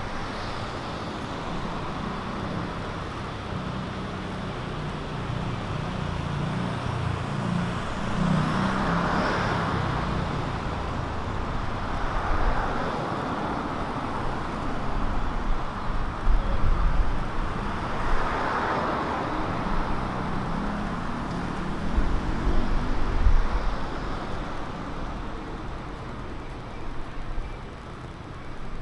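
Road traffic on a city street: a steady hum of engines, with cars passing by and swelling up about 9, 12 and 18 seconds in.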